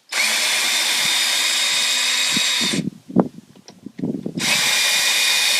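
Power drill running in two steady bursts of about two and a half seconds and two seconds, working the screws of a gate latch, with a few knocks and clicks between the bursts.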